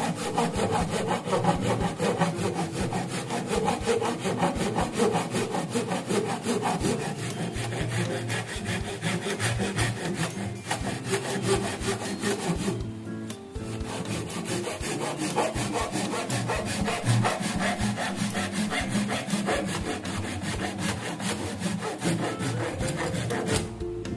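A saw cutting through wood in steady, rapid strokes, with a brief pause a little past halfway through.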